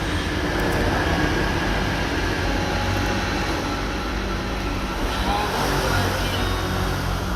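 Steady engine and road noise of a moving vehicle, a low hum under a constant rush.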